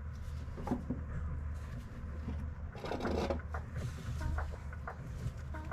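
Scattered metal knocks and clicks, with a brief scraping about three seconds in, from work fitting a rear coil spring under tension, over a steady low hum.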